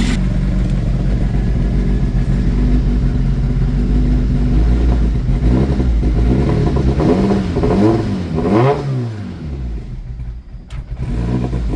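Nissan Pulsar GTI-R's SR20DET turbocharged four-cylinder engine, warmed up, idling and then blipped a few times about halfway through, each rev rising and falling back before it settles to idle. Its valve clearances have just been reshimmed; the owner thinks one or two still have slight slack.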